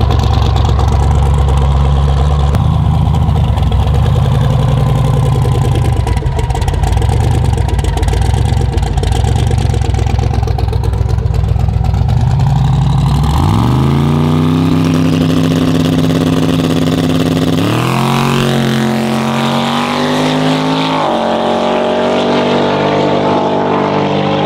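Twin-turbo 427ci LS V8 drag car idling with an uneven low rumble at the starting line. About halfway through, the revs climb sharply and hold steady, then rise again in two steps as the car launches and shifts up through its TH400 automatic, fading away down the track near the end.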